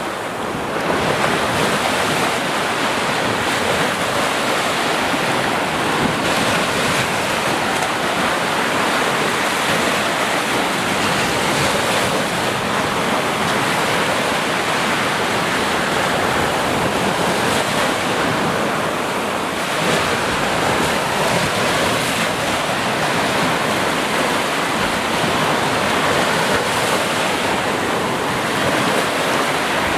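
Sea surf washing onto shore in a steady, unbroken wash of noise.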